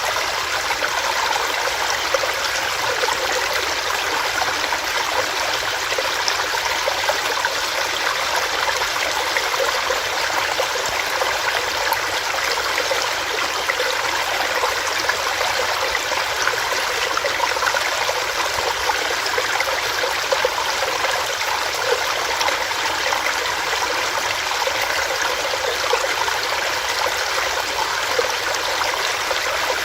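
Small rocky stream, water running and splashing over rocks in a steady, unbroken rush.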